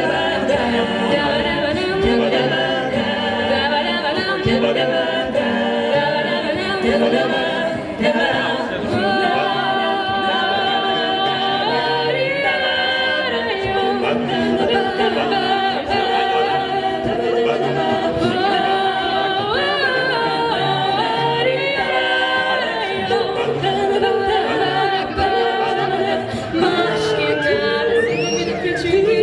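An a cappella vocal group singing in close harmony, several voices together with no instruments.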